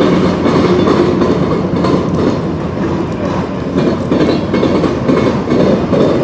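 Freight train rolling past, with its railcar wheels clacking steadily over the rails.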